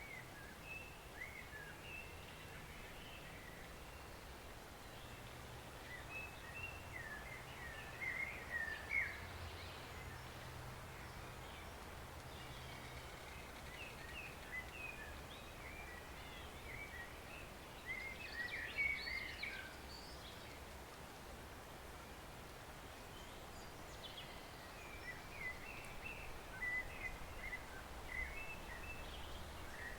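Small songbirds chirping and twittering in scattered bursts, busiest about a third of the way in and again just past the middle, over a faint steady wash of a woodland stream and a low hum.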